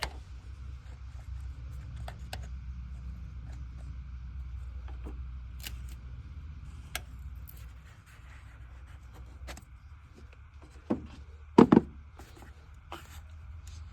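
Hand tools and metal hose-clamp hardware clicking and clinking as radiator hoses are worked loose, with a loud clatter of a few clanks about eleven to twelve seconds in. A low hum underneath fades out about eight seconds in.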